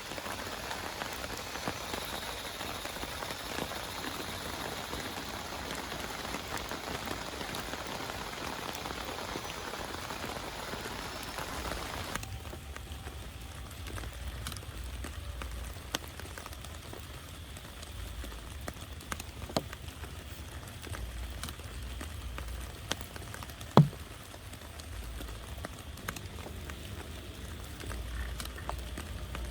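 Heavy rain pattering densely for about twelve seconds, then an abrupt change to lighter rain with scattered sharp drips, a low rumble and one loud knock about 24 seconds in.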